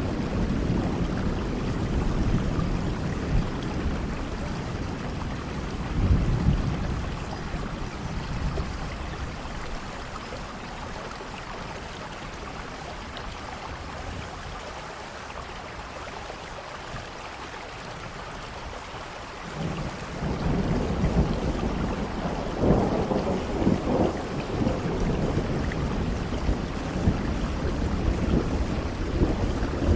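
Steady rain with rolling thunder: a rumble fades over the first several seconds, the storm eases to rain alone in the middle, and a fresh roll of thunder builds up about two thirds of the way in and rumbles on to the end.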